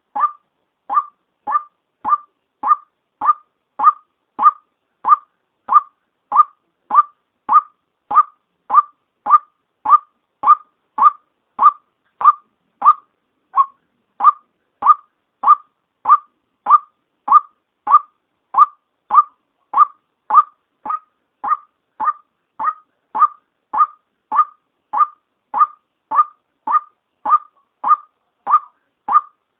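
White-breasted waterhen's female call, used as a trapping lure call: one short note near 1 kHz repeated monotonously, about one and a half to two times a second.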